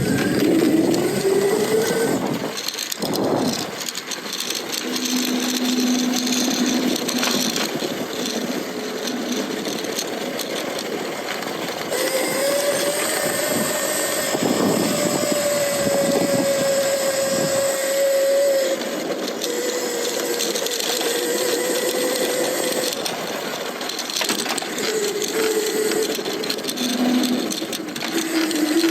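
Lightning Rods mid-drive electric bike motor whining under power, its pitch rising as the bike speeds up and holding steady while cruising, over a rushing of wind and tyre noise.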